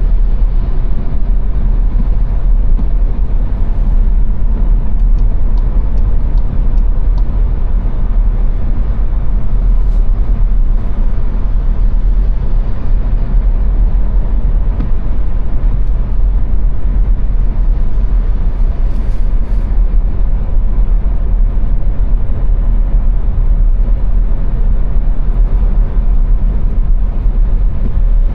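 Steady road noise of a car driving on the Autobahn: an even tyre and engine rumble, heaviest in the low end.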